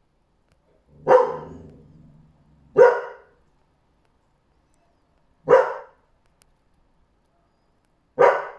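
A dog barking four times, single loud barks a couple of seconds apart with silence between them; the first bark trails off into a lower rumble.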